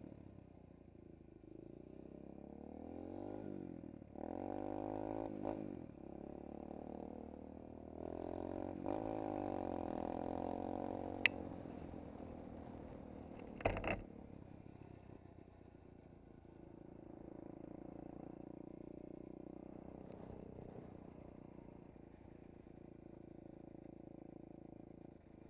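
SSR 125cc pit bike's single-cylinder four-stroke engine running as it is ridden, its pitch rising and dropping several times as the throttle is worked. A sharp click comes about halfway in and a knock a couple of seconds later, after which the engine runs more steadily and quietly.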